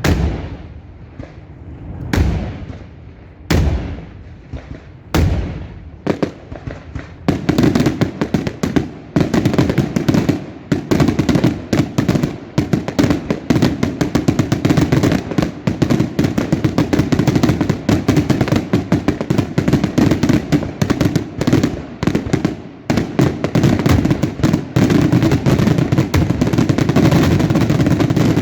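Daylight fireworks going off: single loud bangs about every second and a half, then, from about seven seconds in, a dense barrage of rapid bangs with no let-up.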